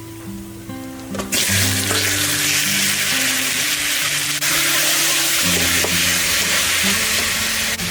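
Food frying in hot oil: a loud, steady sizzle that starts suddenly about a second in, as ingredients go into the pan, after a few clicks of a utensil.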